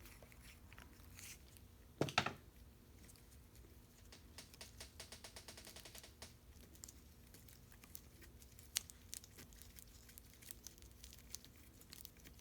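Faint clicks, taps and scrapes of metal parts and hand tools being handled while the thermostat housing of a Mercedes W113 cold start slide valve is taken apart to get at the thermostat bulb. There is a louder clunk about two seconds in and a quick run of small clicks around the middle.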